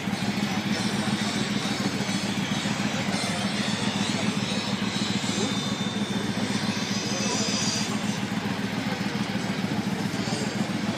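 Triumph motorcycle engine running at a steady idle, a fast even pulsing beat with no revving.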